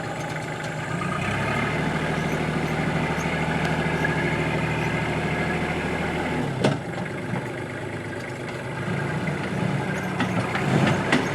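Kubota tractor's diesel engine working under load as its front bucket is forced into hard lamproite ore. The engine note strengthens about a second in, and a single sharp clank comes about six and a half seconds in, after which the engine runs lighter.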